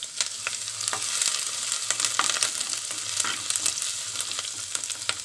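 Minced ginger and garlic sizzling in hot coconut oil in a pan, with frequent sharp crackles, as a spoon stirs through it.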